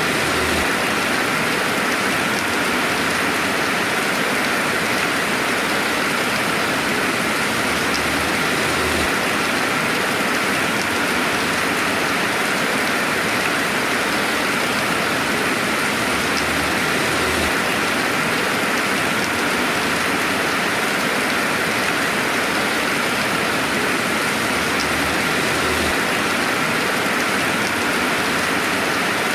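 Steady, even rainfall ambience without thunder, a dense hiss of falling rain.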